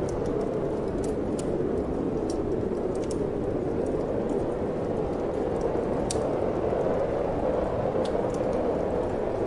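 Wood fire crackling in a fireplace, with scattered sharp pops and snaps over a steady low rushing of wind.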